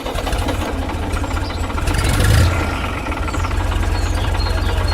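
Tractor engine idling with a fast, steady low chug, briefly louder about two seconds in.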